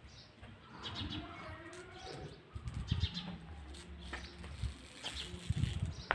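Humming drone of a snu kite's bow, its taut strip vibrating in strong wind, wavering as the wind gusts.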